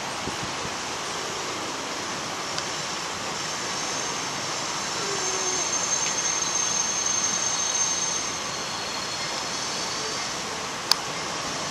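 Distant Union Pacific freight train with its diesel locomotives approaching: a steady noise that swells for about three seconds in the middle, with a thin high whine on top. A single sharp click sounds near the end.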